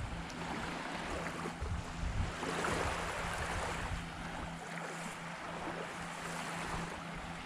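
Waves washing onto a beach, with wind gusting on the microphone during the first half that eases after about four seconds.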